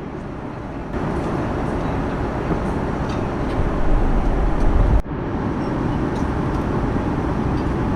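Steady rushing cabin noise of an Airbus A340-300 in cruise flight, from its jet engines and the airflow around the fuselage, heaviest in the low range. It breaks off sharply about five seconds in and carries on at a slightly lower level.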